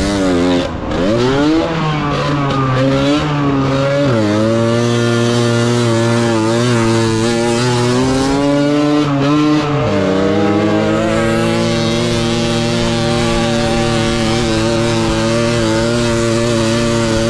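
Tuned 50 cc motorcycle engine running hard at high revs, its pitch briefly dipping and climbing back about a second in, again around four and ten seconds in, then holding steady.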